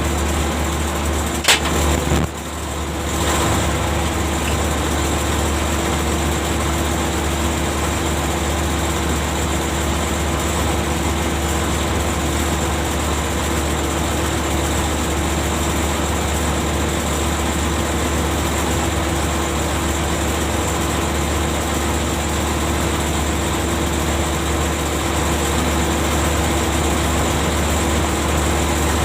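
Ship's deck machinery running with a steady low hum and drone. A sharp knock comes about one and a half seconds in, then the sound briefly drops and builds back up.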